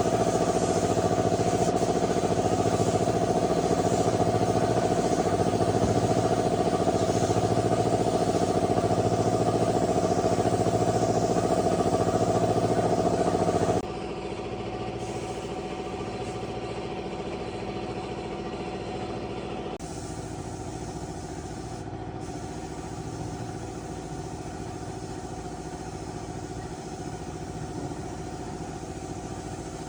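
Engine running steadily at an even speed. About halfway through it turns abruptly quieter and keeps running, and its sound changes again a few seconds later.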